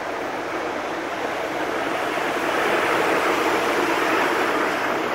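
Deutsche Bahn ICE high-speed train rolling past a station platform: a steady rushing noise of wheels and air that swells to its loudest about three to four seconds in, then eases.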